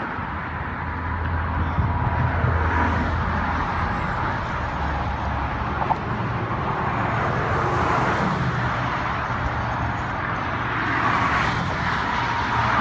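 Steady outdoor background noise with a low engine-like hum.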